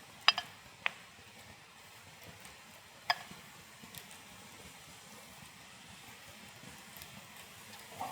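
A few sharp clicks or pops, a close pair then two more spaced a second or more apart, over a faint steady hiss.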